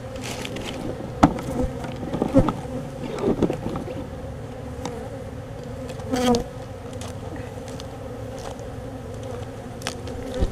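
Honeybees from an opened colony buzzing steadily around their cut-out comb, with a few sharp knocks and handling noises over the hum.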